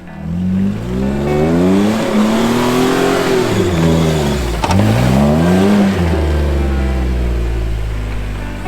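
Off-road Jeep engine revving hard while driving through deep snow. The revs climb and drop several times, with one sharp knock about halfway, then settle lower near the end.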